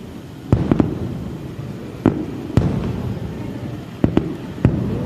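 Aerial fireworks shells bursting at a distance, a series of sharp bangs, some in quick pairs, each followed by a rolling echo.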